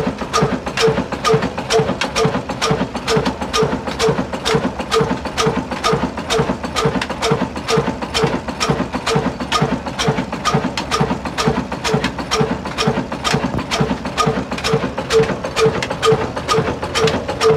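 Old black stationary diesel engine running at a slow, steady beat, about three knocks a second.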